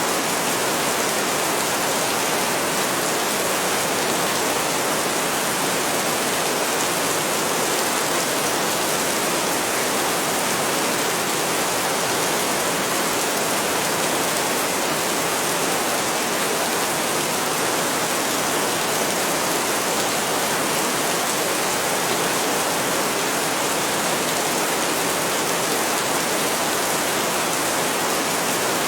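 Heavy rain falling steadily: a dense, even hiss with no breaks and no thunder.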